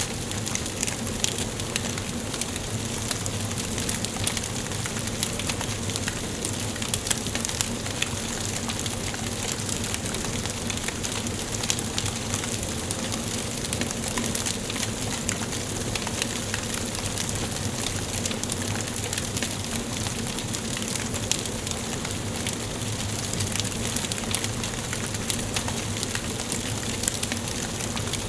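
Wood burning in a fireplace, crackling: a steady hiss with frequent small, irregular pops.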